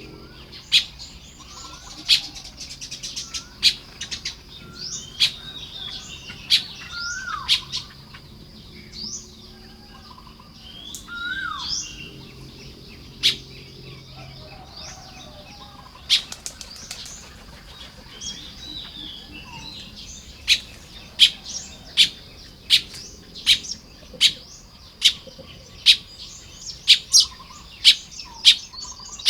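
Baya weavers chirping and chattering at their nest colony, with short gliding whistles and frequent sharp clicks that come faster, about two a second, in the second half.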